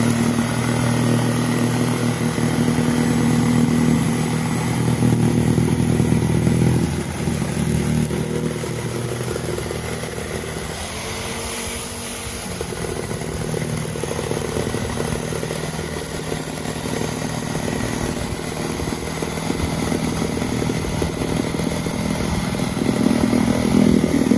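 Corded reciprocating saw (Sawzall) with a multi-material blade running continuously as it cuts through a truck tire near the tread. Its tone changes about seven seconds in and swells again near the end as the load on the blade shifts.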